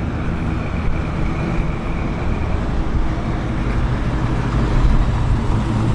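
Road traffic: a steady low rumble of car engines, with a faint high tone in the first couple of seconds.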